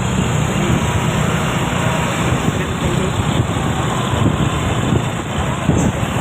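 Steady road noise of a vehicle on the move: a low engine rumble with tyre and wind noise.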